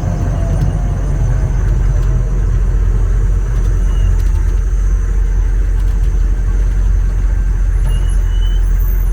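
M1042 HMMWV's diesel V8 engine idling steadily while it warms up, a continuous low rumble.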